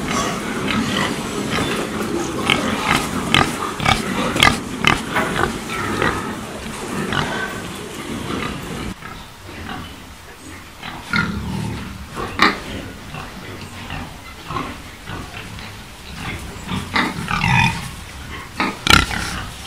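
Pigs grunting and squealing: many short calls in quick succession, thinning out after about nine seconds, then picking up again in a few clusters.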